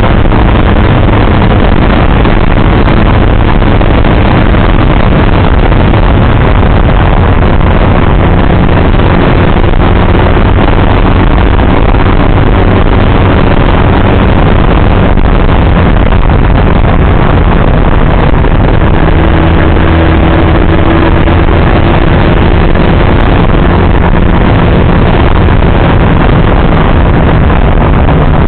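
Motorcycle engine running at riding speed, its note shifting in pitch now and then, under loud, steady wind rush on the microphone.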